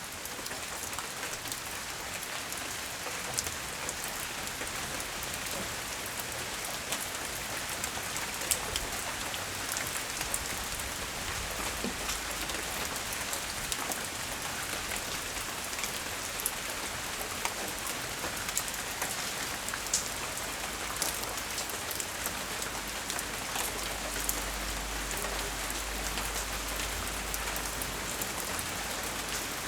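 Steady light rain falling on surfaces, with scattered sharper drips, from a tropical storm with strong winds. A low rumble swells in for a few seconds near the end.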